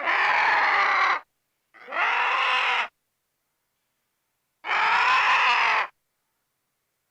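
An animal call repeated three times, each about a second long, with dead silence between the calls.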